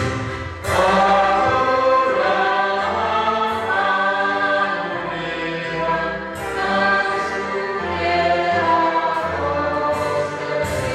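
A group of voices singing a Christian hymn in harmony, holding long notes, with a low accompaniment underneath.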